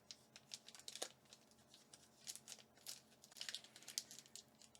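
Foil Pokémon booster pack wrapper crinkling and tearing as it is worked open by hand: a faint, irregular string of crackles.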